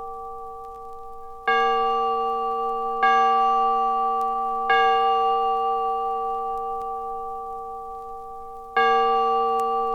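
A bell struck four times on the same note, at uneven intervals. Each stroke rings on and slowly fades, and the last one is still sounding when the next strike comes.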